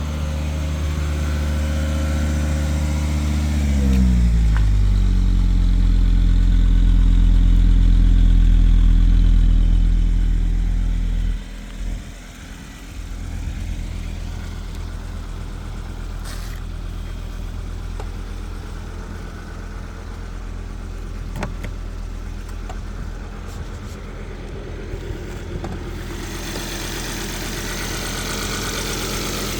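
Volvo V70R's turbocharged five-cylinder engine idling after a cold start. About four seconds in, the engine speed drops from a fast idle to a lower, steady idle. A little before halfway the sound suddenly becomes quieter while the engine keeps idling.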